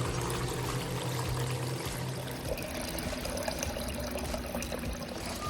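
Water pouring and trickling steadily, with a low steady hum that stops about two seconds in.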